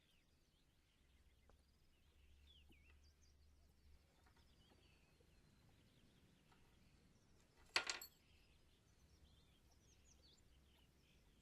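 Faint birdsong: scattered high chirps. One sharp, ringing clink comes about eight seconds in.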